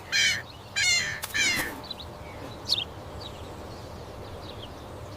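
Three harsh bird calls in quick succession in the first two seconds, then a few faint short chirps over a steady background hiss.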